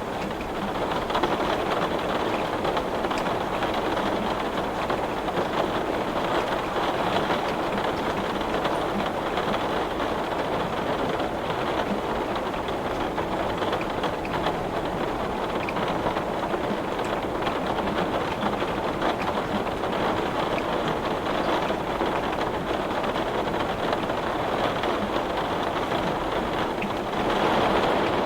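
Heavy rain falling steadily on glass, a dense, even patter of drops, swelling slightly near the end.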